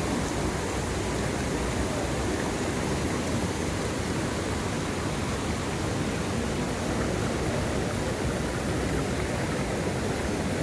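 Mountain stream water rushing steadily over rocks, a dense even hiss of running water.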